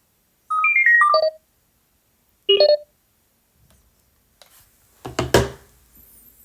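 An electronic chime: a quick run of short beep tones stepping down in pitch about half a second in, then a shorter two-note chirp about two and a half seconds in. A few knocks and handling noise follow near the end.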